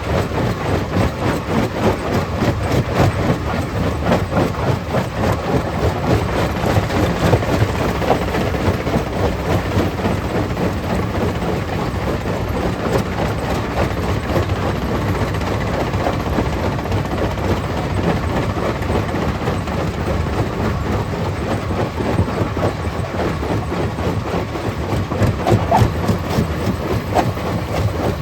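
Stone crusher plant running, with a steady, loud, dense clatter of rock being crushed and rattling through the machine.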